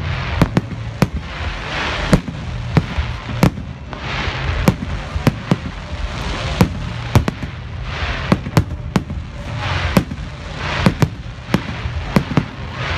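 Fireworks display: a quick, irregular string of sharp bangs from bursting shells, about twenty in all, with hissing swells of crackle rising and fading every couple of seconds.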